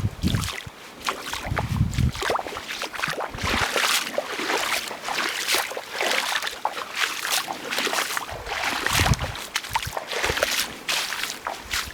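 Water splashing and sloshing in irregular strokes, with occasional low thumps.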